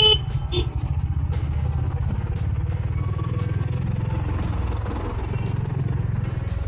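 Honda H'ness CB350's air-cooled single-cylinder engine running at low speed in stop-and-go traffic, a steady low pulsing rumble. A short vehicle horn honk sounds right at the start.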